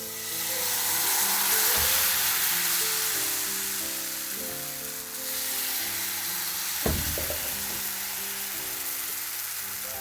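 Food sizzling loudly in a hot frying pan, a steady hissing fry that sets in suddenly as it goes into the pan, with a couple of light knocks of a utensil against the pan. Soft piano music plays underneath.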